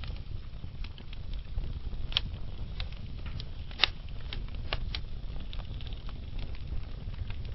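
Wood logs burning in a fireplace: a steady low rumble of flames with scattered small crackles and two louder sharp pops, about two seconds in and about four seconds in.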